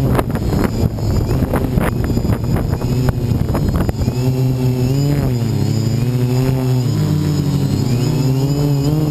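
Quadcopter's electric motors and propellers whirring, recorded on board, the pitch wavering up and down as the flight controller corrects against the wind. Heavy wind buffets the microphone in the first few seconds, and the steady whirr comes through plainly after that.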